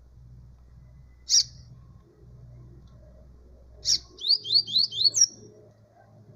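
Double-collared seedeater (coleiro) singing: a single sharp high note, then a few seconds later a short phrase of a sharp note, four quick repeated slurred notes and a higher closing note.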